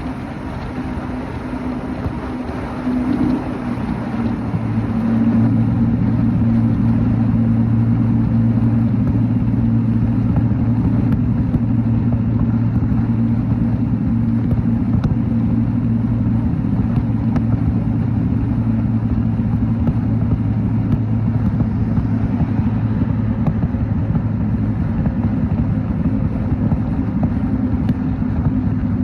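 Motorcycle engine running on the move, over a steady hiss of road noise. The engine grows louder about five seconds in, then holds a steady pitch as it cruises.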